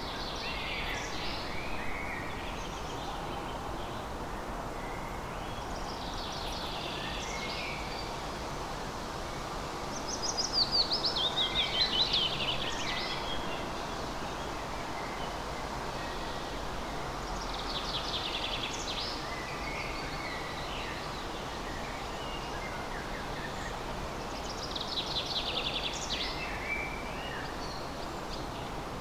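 A songbird singing short, fast trilling phrases, one every several seconds, over a steady outdoor hiss. The loudest phrase comes near the middle.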